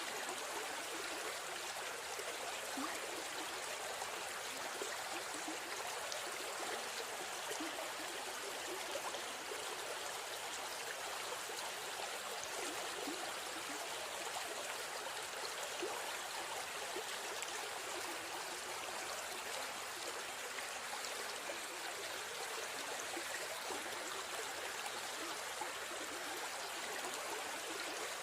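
River stream flowing steadily, water rushing and trickling over rocks.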